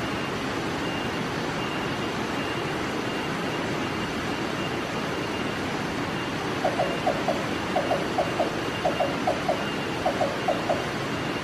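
Black-banded barbet calling: after about six seconds, four quick bursts of three or four low, hollow notes, roughly one burst a second, over a steady background hiss.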